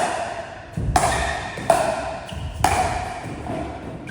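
Pickleball being hit back and forth with paddles in a rally: four sharp pops, roughly a second apart, each ringing briefly.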